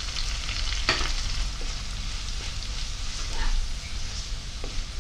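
Onions, green chillies and curry leaves sizzling in hot oil in a non-stick wok while curry powder is stirred in with a spatula that scrapes the pan, with one sharper knock about a second in.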